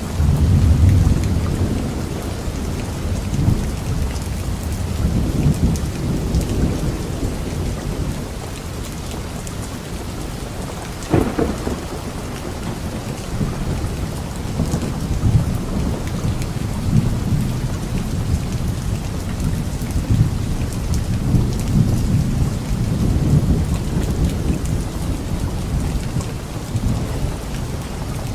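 Steady rain falling on leaves, with thunder rumbling low and swelling and fading throughout, and one sharp crack about eleven seconds in.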